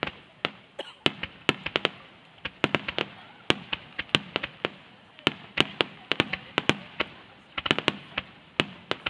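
A star mine fireworks barrage: aerial shells bursting in quick, uneven succession, several sharp bangs a second.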